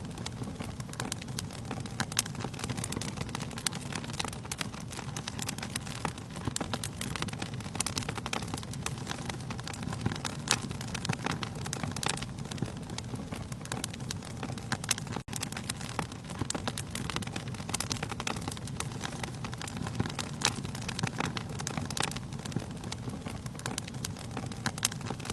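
Wood fire burning in a fireplace: logs crackling and popping steadily over a low, even rush of the flames, with a momentary gap in the sound about fifteen seconds in.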